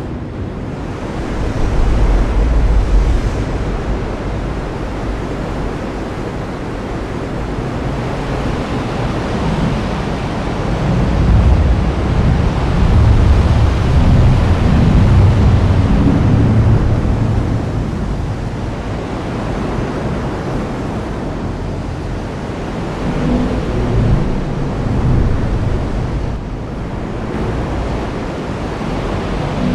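Heavy rain falling in a steady dense hiss, with low rolling thunder swelling up a third of the way in and rumbling for several seconds, and again more briefly near the end.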